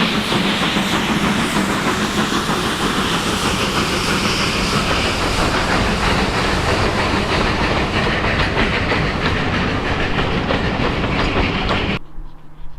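Steam train running close by: a loud, steady rush of wheel clatter and steam hiss that cuts off suddenly near the end.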